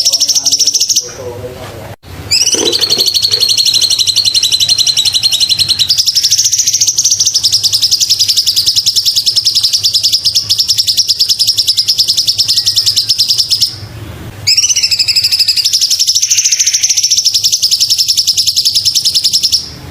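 Cucak cungkok song: long, very fast trills of high chirping notes at a steady pitch, broken by short pauses about a second in and again near 14 seconds.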